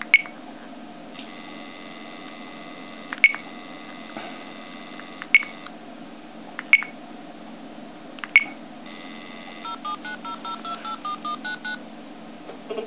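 Phone dialing a number: a steady electronic tone for a few seconds and several sharp clicks, then a quick run of touch-tone keypad beeps at changing pitches near the end.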